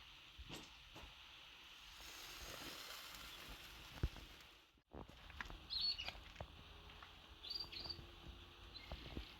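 Faint outdoor ambience with a steady hiss, scattered light knocks and taps, and a few short bird chirps in the second half.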